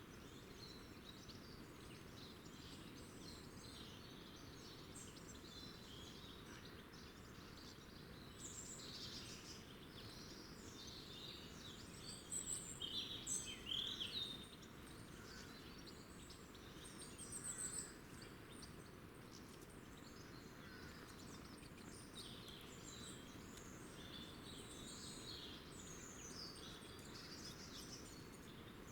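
Small garden birds chirping and twittering over a steady background hiss, with a louder flurry of calls about halfway through and another short one a few seconds later.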